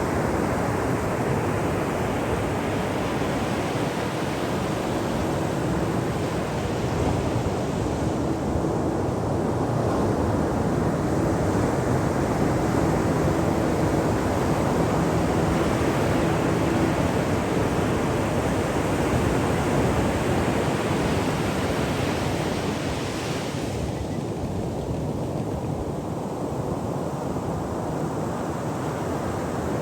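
Ocean waves breaking on a shore: a continuous rush of surf that builds through the middle and eases off about three quarters of the way through.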